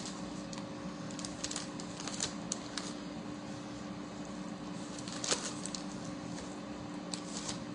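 Scattered crinkles and clicks of plastic bags and chicken pieces being handled as seasoned wings are divided into bags, the sharpest click about five seconds in. Under it runs the steady hum of an air fryer cooking wings.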